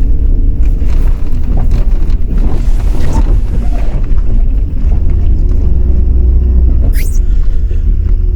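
Truck driving slowly over a rough, wet dirt track: a steady low rumble with scattered knocks and rattles.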